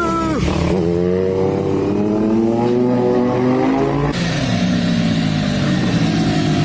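Motorcycle engine revving and accelerating, its pitch climbing steadily for a few seconds after a quick blip of the throttle. About four seconds in the sound changes abruptly to another engine running at a lower, uneven pitch.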